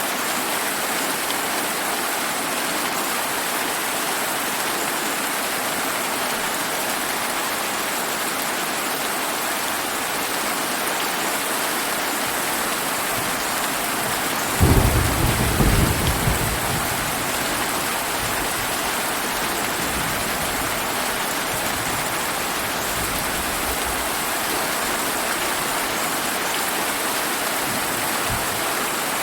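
Steady heavy rain hissing throughout, with one thunderclap about halfway through that cracks suddenly and rumbles away over a few seconds.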